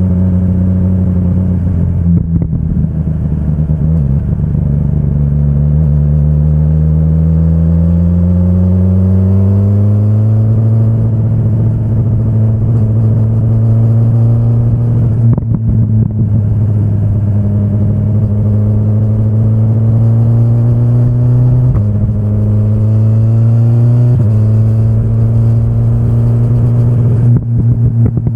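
BMW S1000RR's inline-four engine under way: the note climbs steadily in pitch between about four and ten seconds in, then holds fairly steady, with short sudden breaks and steps in pitch at several points where gears change.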